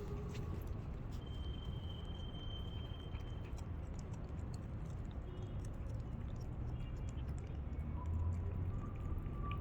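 A cat eating, chewing its food with many small irregular clicks.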